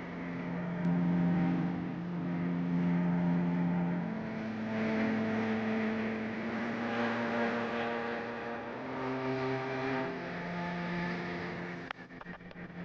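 A road vehicle's engine running on the move, its steady note stepping up in pitch about four seconds in and dropping back about nine seconds in.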